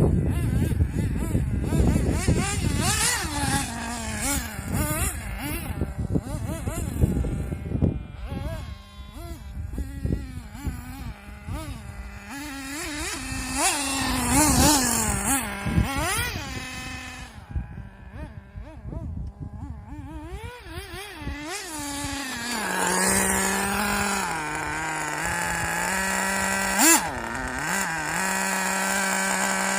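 RC buggy engine revving up and down, the pitch rising and falling repeatedly. About two-thirds of the way through it settles into a steady high-pitched run, with one short blip near the end.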